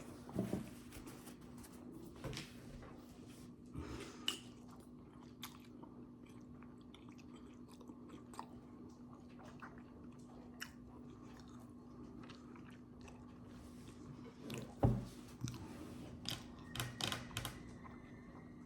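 A person chewing and biting food close to the microphone, with scattered wet clicks and crunches, a louder cluster of bites near the end. A steady low hum runs underneath.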